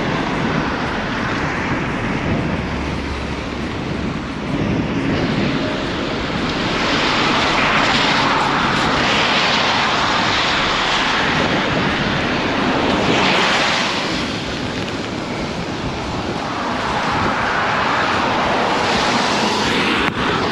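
Wind rushing over a camera microphone carried on a moving bicycle, a steady loud rush that swells and eases several times.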